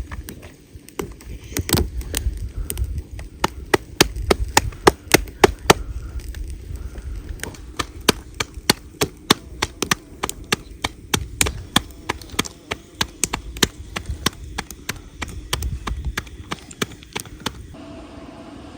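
Knife chopping on a wooden board, a run of sharp irregular chops several a second with dull thuds beneath, stopping shortly before the end.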